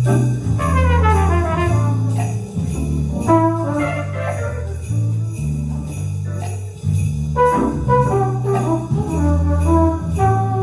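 Live jazz band music: a strong bass line under falling runs of higher notes, with bright jingling percussion hits keeping a steady beat.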